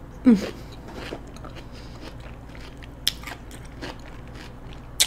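Close-miked biting and chewing of a raw cucumber spear: scattered small wet clicks of chewing, with sharper crisp bites about three seconds in and again near the end. A brief hummed 'mm' just after the start.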